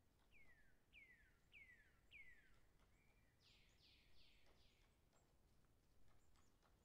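Near silence with a faint bird calling: four falling whistled notes, then four quicker, buzzier chirps around the middle, with faint light clicks through it.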